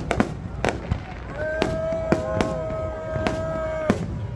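Aerial fireworks going off in a quick series of sharp bangs and crackles. From about a second and a half in, a steady horn tone is held for about two and a half seconds over the bangs.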